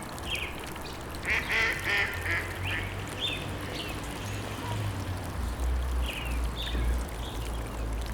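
Short bird calls repeating over a steady low rumble, with a quick run of calls about a second and a half in.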